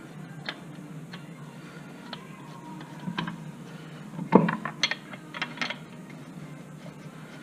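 Scattered metallic clicks and clanks of a wrench working the lug nuts while the rear wheel goes back on, with a loud knock a little over halfway through followed by a quick run of clicks.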